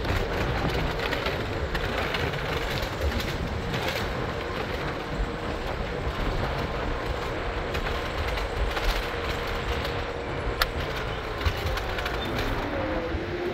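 Train running: a steady rumble with a faint whine held on one pitch, a few sharp clicks, and whines that glide in pitch near the end.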